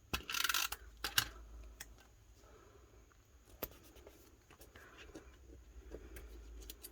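Paper being trimmed and handled at a craft table: a short rustle of cutting in the first second, then scattered light clicks and taps of paper and tools.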